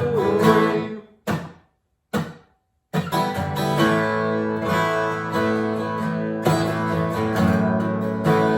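Acoustic guitar strumming chords that dies away about a second in, two short single strums, a brief silence, then steady strumming picks up again about three seconds in. A sung note trails off at the very start.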